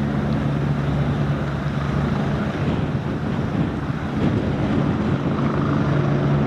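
Helicopter engine and rotor running steadily with a constant hum, and wind noise on the microphone.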